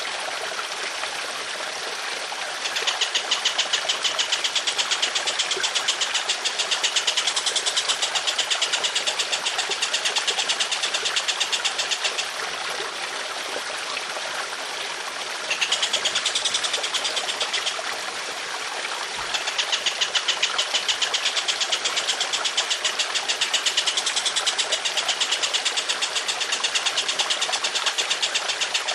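A songbird's long, harsh, machine-gun-like trills: fast even rattling notes in three long bouts, the first lasting about nine seconds, over a steady trickle of running water.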